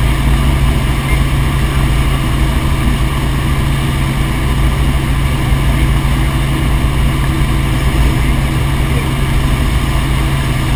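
Helicopter in flight, a loud steady drone of rotor and engine with no change in pitch.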